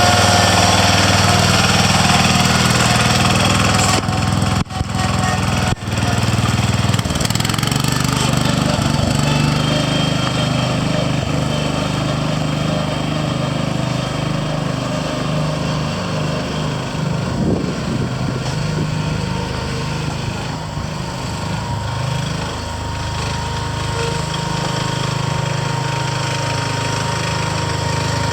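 John Deere 140 H3 garden tractor's engine running steadily, with two brief dips in loudness about five and six seconds in.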